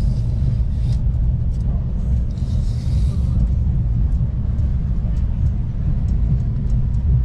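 Steady low rumble of a passenger train running, heard from inside the carriage, with a brief hiss about two and a half seconds in.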